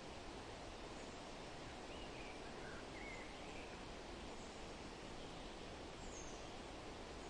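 Steady rustle of wind through forest leaves, with a few faint, short bird chirps scattered through it: several in the first half and one higher call about six seconds in.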